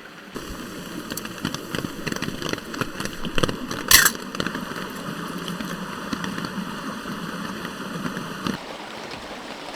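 Steady rain falling, a dense patter of small drop ticks, with one sharper, louder tap about four seconds in.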